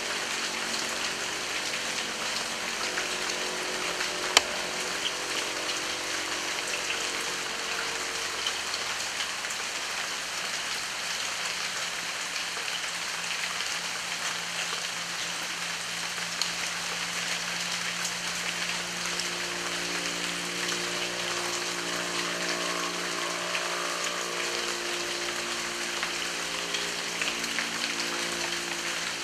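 Heavy rain falling steadily as an even hiss, with a single sharp drip-like click about four seconds in. Faint low steady tones hum underneath at times.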